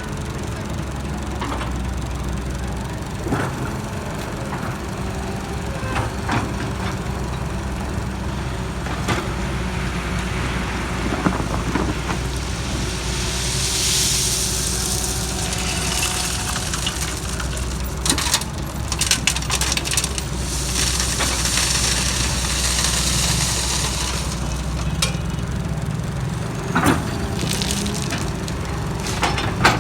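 JCB JS160 wheeled excavator's diesel engine running steadily, with scattered knocks and clanks. Twice, near the middle and a few seconds later, a loud hiss rises over the engine and then dies away.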